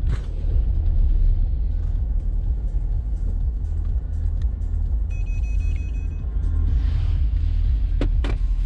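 Low, steady rumble of the Mercedes GLK 250 CDI's four-cylinder diesel engine running, heard from inside the cabin. A brief high electronic tone sounds about five seconds in, and two sharp clicks come near the end.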